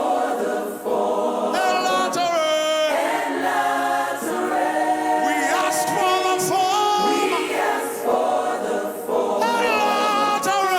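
A worship choir singing a gospel song, with long held notes that waver in pitch.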